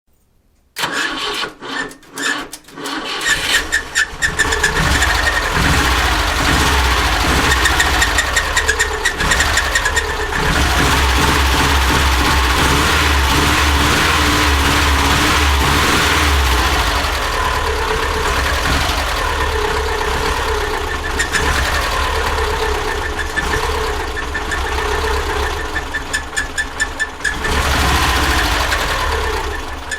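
Car engine starting after about two seconds of cranking, then running steadily with a thin, high whistle that the owner places around the distributor, cause unknown to him.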